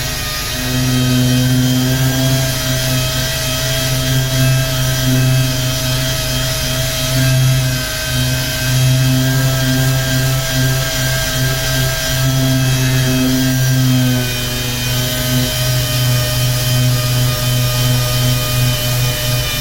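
Power sander running on car body paint with a steady, loud hum, easing off briefly a couple of times.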